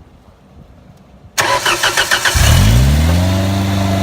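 Ford LRG-423 2.3-litre four-cylinder engine cranked by its starter about a second and a half in. It catches within a second, rises briefly in pitch and settles into a steady fast idle.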